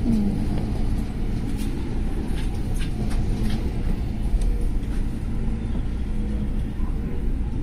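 Running noise of a JR West electric commuter train heard from inside the car: a steady low rumble of wheels on rail as it moves along a station platform, with a few sharp clicks and a faint hum.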